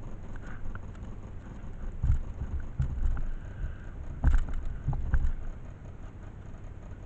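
Motorcycle ride: low engine and road rumble with wind buffeting the microphone, and a run of loud thumps and knocks between about two and five seconds in.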